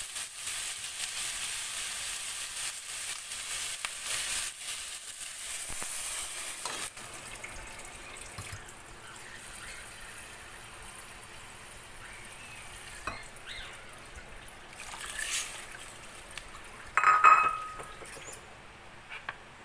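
Chicken and vegetables sizzling in hot oil in a pot; the sizzle cuts off suddenly about seven seconds in as water is added, leaving a quieter simmer with a few light clicks. A loud, short ringing clink comes near the end.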